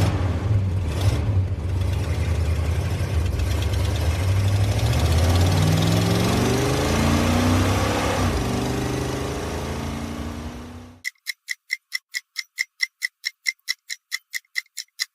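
Ford muscle car engine running with a deep rumble, then revved so its pitch climbs about six seconds in and holds higher. It cuts off about eleven seconds in, and a countdown timer ticks rapidly, about five ticks a second.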